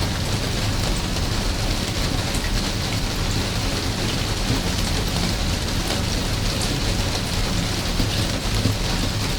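Steady rain falling, an even hiss with scattered drops ticking through it and a steady low rumble underneath.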